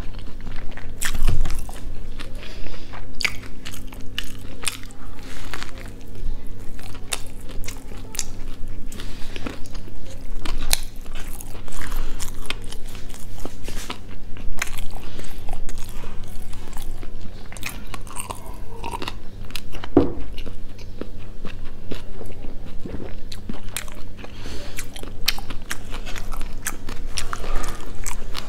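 Close-miked biting and chewing of a fried chicken burger, with frequent crisp crunches.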